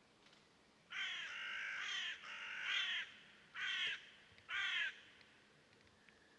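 A bird calling: a run of calls lasting about two seconds, then two short single calls.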